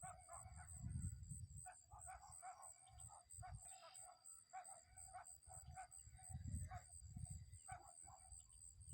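Faint, repeated short bird calls, over low rumbling from wind on the microphone and a steady high-pitched insect-like whine.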